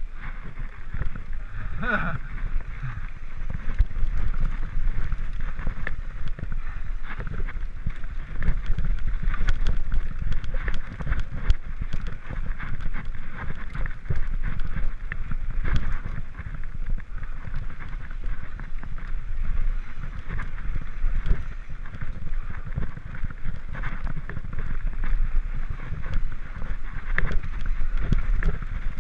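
Mountain bike descending a dirt trail: steady wind rumble on the microphone, with tyre noise and frequent clicks and rattles from the bike over bumps.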